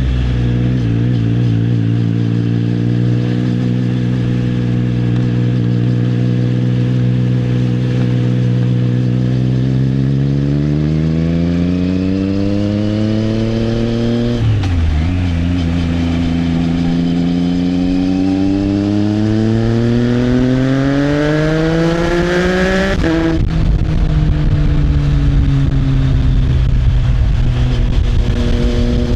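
Triumph Trident 660's inline three-cylinder engine through an Arrow exhaust. It runs steadily, then accelerates with rising pitch, shifts up quickly about halfway, and climbs again before a second upshift drops the pitch near the end, with more rushing noise after it.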